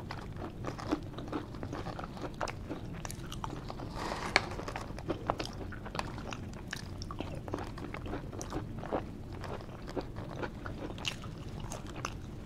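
Close-up chewing and lip smacking of a person eating garlic fries: a steady run of many small wet clicks and smacks.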